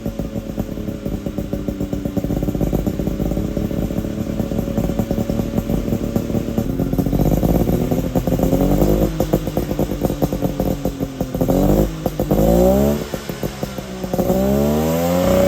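Suzuki Jimny SJ30's two-stroke three-cylinder engine running through an Apio Matsumoto-style expansion chamber and muffler: steady idle at first, then revved up and let fall back several times in the second half.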